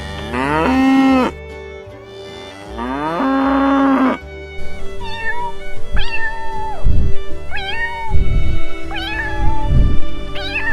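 Cats meowing. First come two long, low calls that rise and then hold. From about halfway on, a run of shorter, higher meows follows, over background music with a steady beat.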